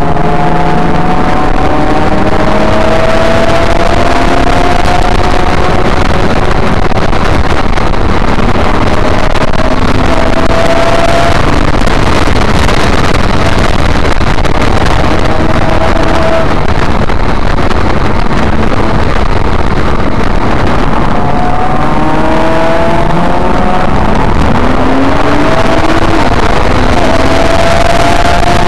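Nissan GT-R's twin-turbo V6 heard from inside the cabin, driven hard on a race track: the engine note climbs again and again as it pulls through the gears, over loud, constant road and tyre noise.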